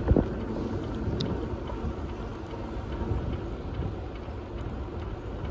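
Rumble and rattle of a bicycle being ridden along a path, heard as a steady low noise, with one sharp knock just after it begins.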